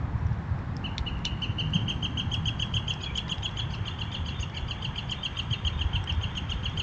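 A small songbird singing a long, rapid trill of evenly repeated chirps, about eight a second, starting about a second in. A steady low rumble runs underneath.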